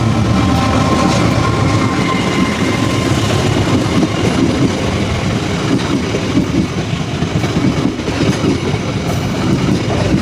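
Train passing close by: a loud, steady rumble with wheels clattering over the rails.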